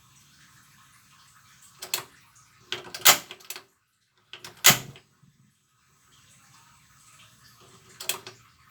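Single-burner gas stove being worked: about four sharp clicks and clunks, the loudest near the middle, with a faint steady noise from the burner between them.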